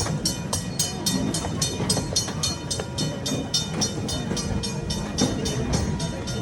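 Small park railroad train running along the track: a steady low rumble with a quick, even ticking about four times a second.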